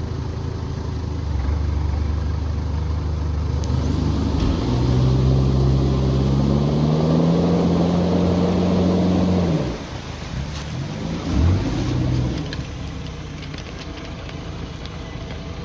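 Four-wheel-drive engine revving hard under load, its pitch climbing steadily for about five seconds before it drops off, then a short second rev. It is a stuck vehicle being driven and snatched through a bog hole.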